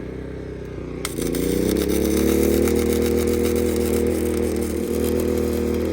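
Harbor Freight flux-core wire welder striking an arc about a second in and crackling and sizzling steadily for several seconds, over a steady mechanical hum.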